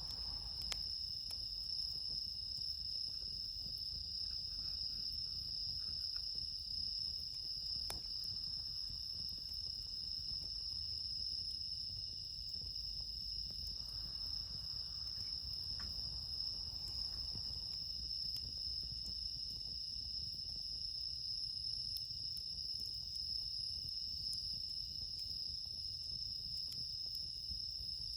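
Crickets and other night insects chirring steadily in several high, even tones at once, with a few faint ticks now and then.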